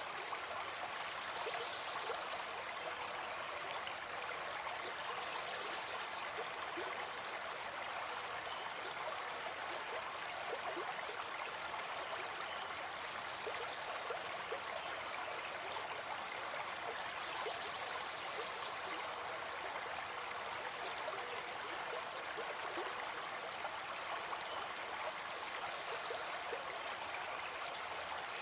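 Gentle forest stream flowing: a steady, even rush of water with small gurgles and splashes scattered through it.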